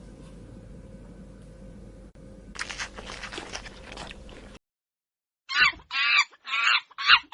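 A low steady hum with scratchy rustling cuts out abruptly. After a second of silence, an animal gives a series of loud, short, pitched calls, four in under two seconds.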